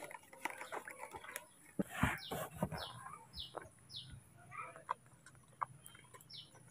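A bird chirping: four short, high notes, each falling in pitch, about half a second apart, and one more near the end, over faint scattered clicks and knocks.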